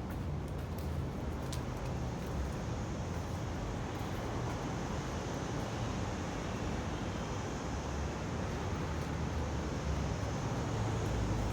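Steady outdoor noise: wind buffeting the microphone, with a low rumble and hiss underneath.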